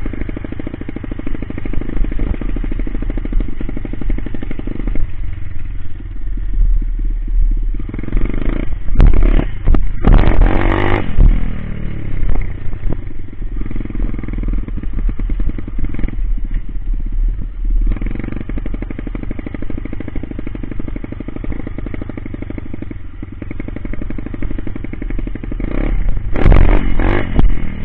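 Coolster Speedmax 125 pit bike's single-cylinder four-stroke engine running at changing throttle, revving hard about eight seconds in and again near the end, the pitch dropping away after the first rev.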